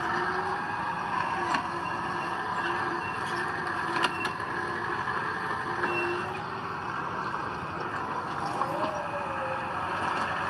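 Heavy earthmoving machinery running steadily, with two sharp clanks about one and a half and four seconds in.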